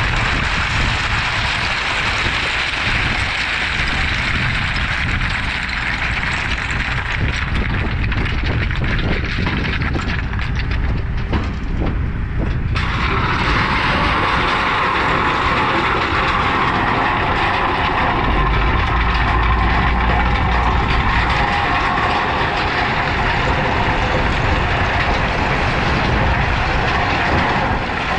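Heavy diesel equipment running steadily under load, a dense engine-and-machinery noise that shifts abruptly in tone about 13 seconds in.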